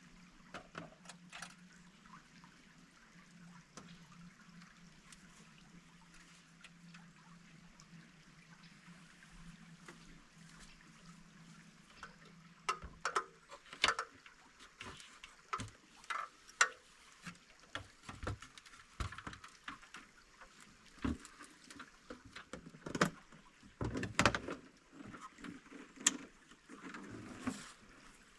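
Stream running steadily, with a low steady hum under it for the first half. From about halfway, irregular sharp knocks and clatters, several of them louder, come in over the water.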